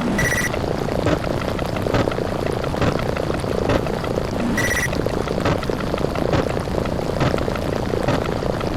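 Explosion sound effects repeated so fast that they merge into a continuous crackling rumble. A short high beep sounds twice, near the start and about four and a half seconds in.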